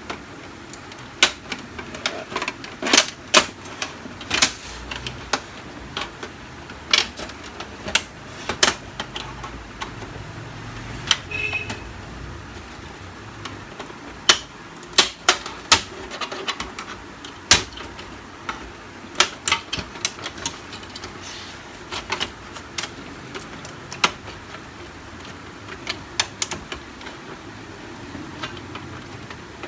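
Plastic outer covers of a Canon LBP 6030 laser printer being unlatched and handled: irregular sharp clicks, snaps and knocks of plastic, some on their own and some in quick clusters.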